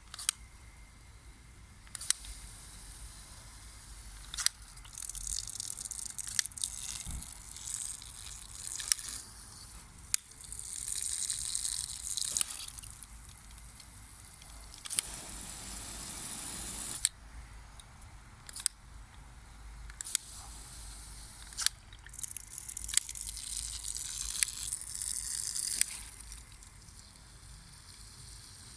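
Water hose spraying in several hissing bursts of a few seconds each, with sharp clicks in between.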